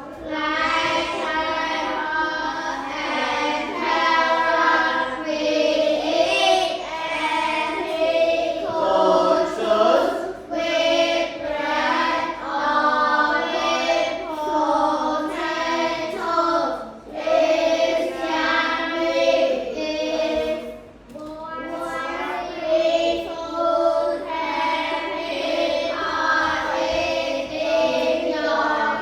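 A class of children reading a passage aloud together in unison: a chanted, sing-song chorus of many young voices, with short dips between phrases.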